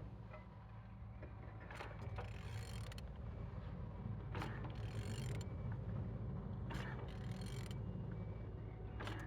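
A Mercedes-Benz OM646 diesel engine being turned over by hand with a ratchet wrench on the crankshaft: a series of ratcheting, grinding strokes about every two seconds. The engine turns freely, a sign that it is not seized.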